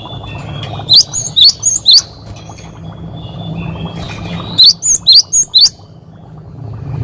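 Cinereous tit (gelatik batu) singing: two bursts of four or five quick, sharply rising whistled notes, one about a second in and another just past the middle. A steady low hum runs underneath.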